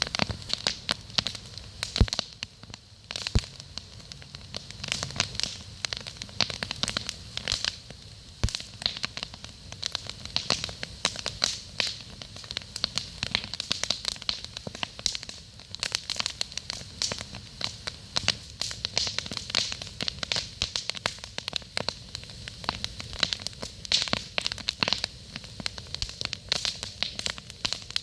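Wood campfire burning, with dense irregular crackling and occasional sharper pops over a soft hiss.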